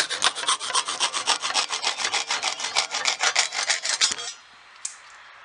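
Japanese pull saw cutting through a small glued-in mahogany filler piece in a molding miter, in rapid short strokes. The sawing stops about four seconds in.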